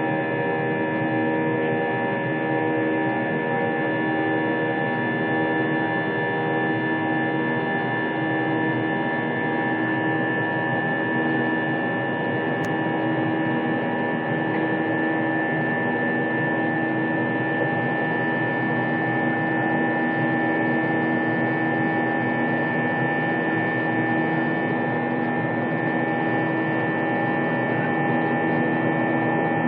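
Airliner jet engines droning steadily, heard from inside the passenger cabin: an even rush with several held tones, unchanging in level.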